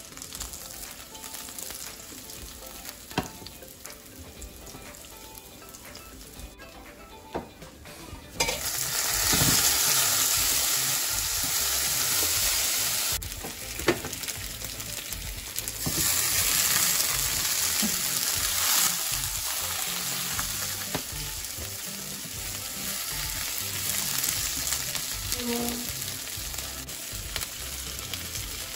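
Food frying in hot oil in a ceramic-coated frying pan. A soft sizzle of garlic in oil, with a few light clicks, jumps suddenly to a loud sizzle about eight seconds in as chopped red onion goes into the pan. The sizzle dips briefly and rises again, with a single utensil click in between.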